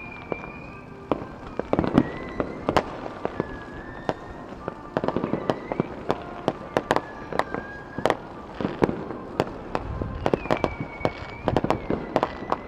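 Many fireworks going off far away across the city: an irregular stream of sharp pops and bangs that grows denser in the second half.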